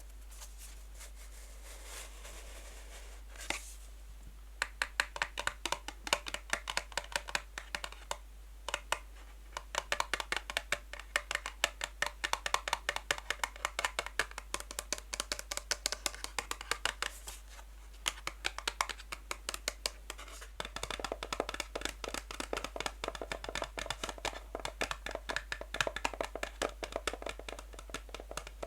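Natural fingernails tapping fast on a box, many light clicks a second. The first few seconds are soft and sparse; the tapping turns dense from about four seconds in and grows fuller in the last third.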